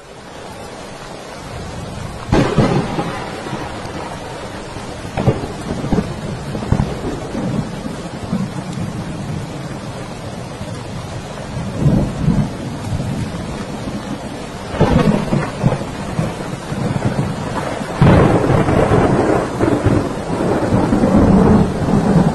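Thunderstorm: steady rain with rolls of thunder, fading in at the start. Thunder cracks and rumbles about two seconds in, again around twelve and fifteen seconds, then a long, loud rumble from about eighteen seconds on.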